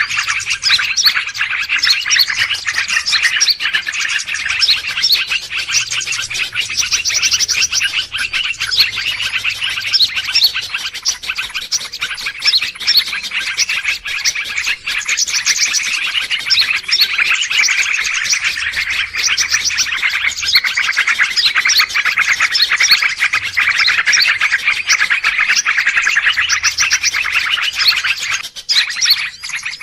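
A dense, noisy chorus of many small birds chirping and twittering over one another, a mixed-bird lure recording of the kind played to attract wild birds. The chirping is continuous and thins out briefly near the end.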